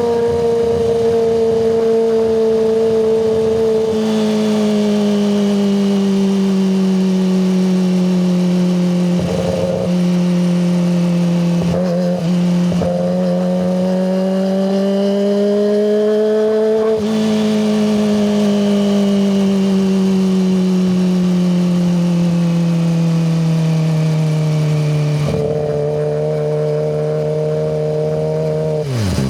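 Kawasaki ZX-25RR's 250 cc inline-four engine, through a Yoshimura Hepta Force exhaust, running at high revs. Its pitch drifts slowly down and up, stepping down about 4 s in and back up about 17 s in, with short breaks around 10 and 12 s.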